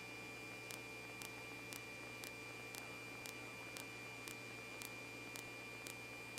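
Faint steady electrical hum and hiss with a thin high tone and soft clicks about twice a second: the background of a police radio audio feed between transmissions.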